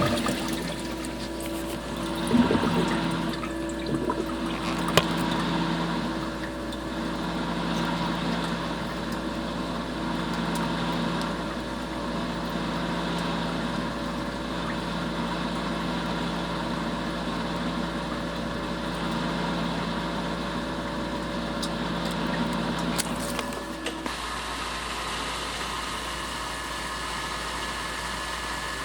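GM LS-series V8 running with a failing water pump: a steady rushing, whirring noise with several held tones. Two sharp knocks come in the first five seconds, and about 24 seconds in most of the tones drop out, leaving a plainer steady engine hum.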